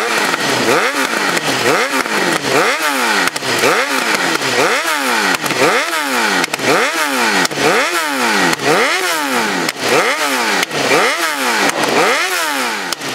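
Suzuki GSX-R 750 inline-four sport bike engine with a Yoshimura R55 slip-on exhaust, revved repeatedly while standing: the pitch rises and falls about once a second, around a dozen times in a row.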